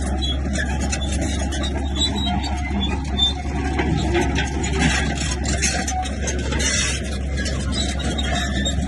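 Komatsu bulldozer's diesel engine running steadily, with irregular metallic clanks and scraping from the machine at work.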